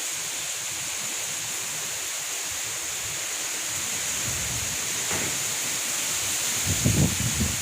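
Summer storm: a steady, even rush of wind and heavy rain. Wind begins buffeting the microphone with low thumps near the end.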